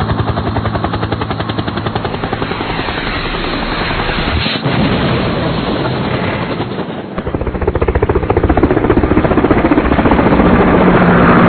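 Fast, steady chopping of helicopter rotor blades. It eases briefly about seven seconds in, then grows louder again toward the end.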